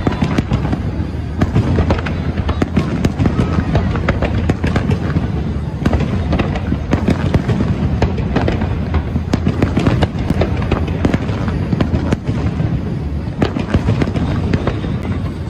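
Aerial fireworks display: shells bursting in quick succession, a dense barrage of overlapping bangs and crackles over a continuous low rumble.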